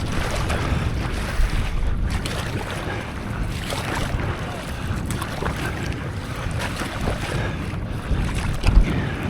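Wind buffeting the microphone over splashing sea water from a stand-up paddleboard, with a couple of low thumps near the end.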